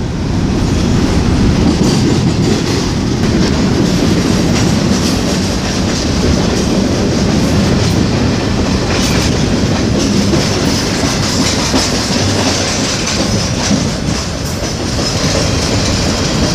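Norfolk Southern freight train rolling past: a steady heavy rumble of railcars with the wheels clacking over rail joints.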